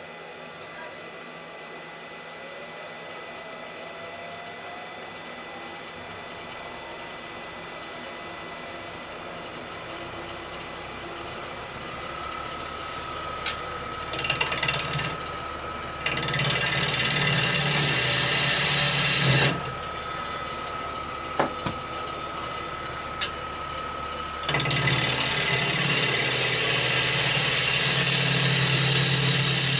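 Wood lathe running, its motor tone slowly rising and then holding steady. A bowl gouge cuts into the spinning rowan bowl blank in two long, loud passes, one just past the middle and one near the end, with a few sharp clicks between them.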